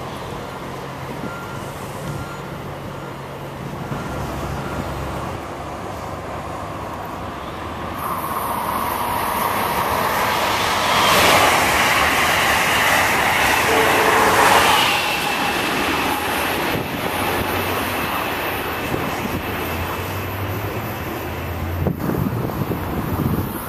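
Amtrak Acela Express high-speed electric train passing close at speed: a rush of wheel and air noise builds from about eight seconds in, is loudest for a few seconds in the middle, then fades. Earlier, a SEPTA electric commuter train runs on a farther track with a low steady hum.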